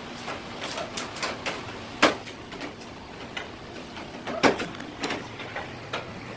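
Knife and hands working a rock bream on a cutting board: a run of irregular taps and clicks, with two louder knocks about two and a half seconds apart.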